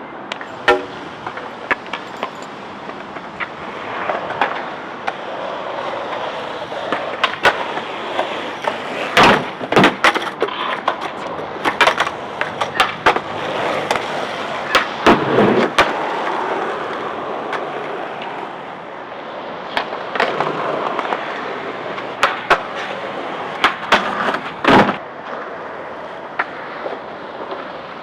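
Skateboards rolling on a hard surface, with repeated sharp clacks and knocks of boards and trucks hitting a grind box. The hits are loudest in a cluster about a third of the way in and again near the end.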